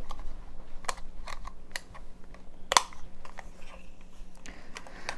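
Irregular light clicks and taps from a small digital kitchen scale being handled, the sharpest about two and three-quarter seconds in.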